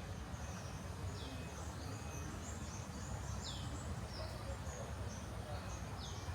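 Outdoor ambience of short high chirping and whistling animal calls, with a downward-sweeping call about every two and a half seconds, over a steady low rumble.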